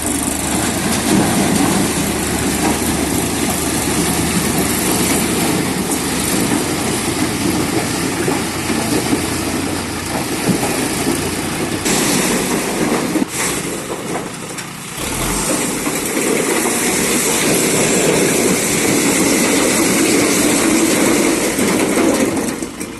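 Mahindra Arjun 605 DI tractor's diesel engine working under load as it hauls a heavily loaded trolley, running steadily with a brief dip near the middle.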